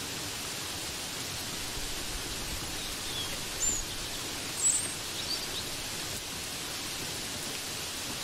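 Steady, even hiss of rain. A few short high bird chirps stand out in the middle.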